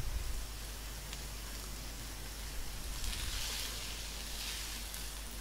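Shredded cabbage, chicken and vegetables sizzling in a hot wok as they are stirred with a spatula; the frying hiss grows louder about three seconds in.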